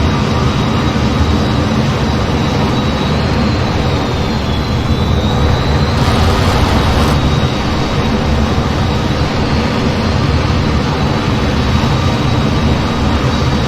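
Steady jet noise from an F-15 in flight: a dense low rumble with a thin high whine that dips briefly about four seconds in. A short rise in hiss follows about six seconds in.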